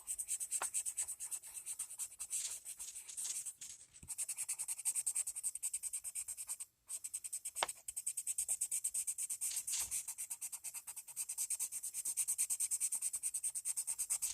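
Coloured pencil shading rapidly back and forth on paper, a quick run of scratchy strokes with two brief pauses, laying down a light first coat.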